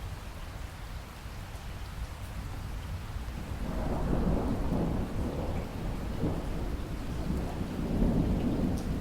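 Rain falling steadily, with a long roll of thunder that builds about a third of the way in and keeps rumbling to the end.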